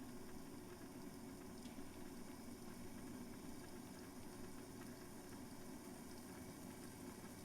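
Water heating in a Trangia kettle over a small fire, a faint steady hiss of water coming up to the boil.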